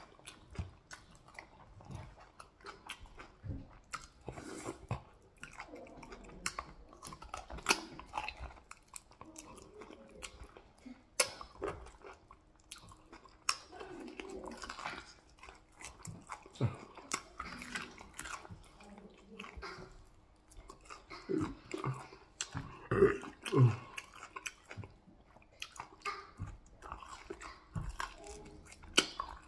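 Close-miked chewing, biting and wet mouth smacks of a person eating soft fufu with soup and beef by hand, in an irregular run of small clicks and squelches with a few louder bites.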